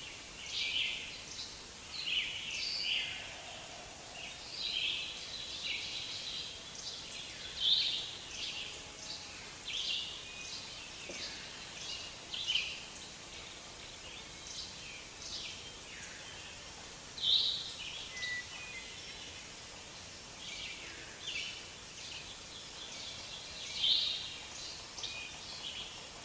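Birds chirping: short calls come every second or two at uneven intervals, over a steady hiss.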